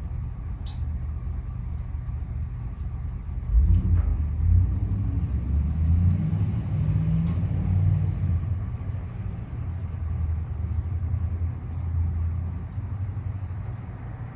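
Low rumble of a motor vehicle's engine passing by, swelling about three and a half seconds in and easing off near the end.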